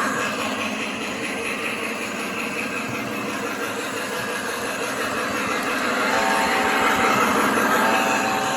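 Lionel Union Pacific model locomotive running on its track with its onboard sound system, a steady rolling and engine noise. About six seconds in and again near the end it sounds two blasts of a chord horn.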